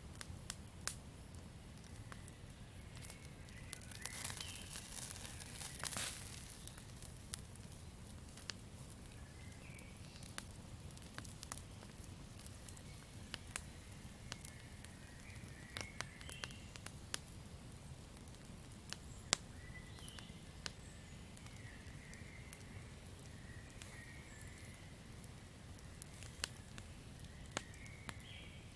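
Campfire crackling: sharp pops and snaps scattered over a low rumble of burning wood, with a louder hissing flare-up about four to six seconds in. Short, faint chirps of night-forest creatures come now and then in the background.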